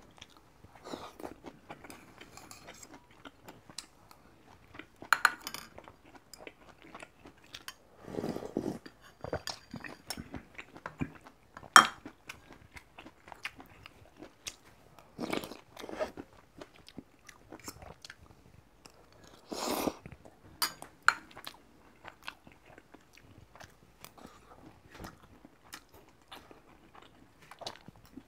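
Close-miked chewing and crunching of mouthfuls of Korean side dishes, irregular and wet, with a few sharp clicks of metal chopsticks and spoon against a stainless steel bowl, the loudest about twelve seconds in.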